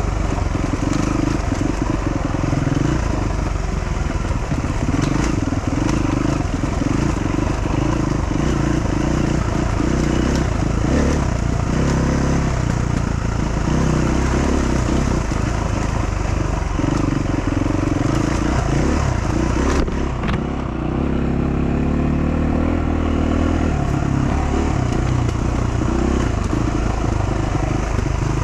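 Dual-sport motorcycle engine running while riding a trail, its pitch rising and falling with throttle and gear changes and dropping off briefly about twenty seconds in. Scattered short knocks and clatter sound along with it.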